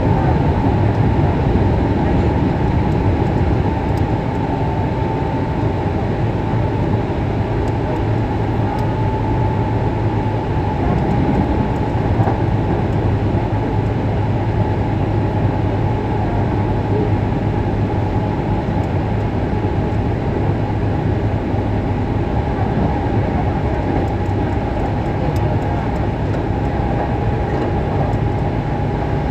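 Hankyu 6300 series electric train running, heard from inside car 2 directly above the under-floor line breaker: a continuous rumble of wheels on rails with a low hum and a thin steady high tone.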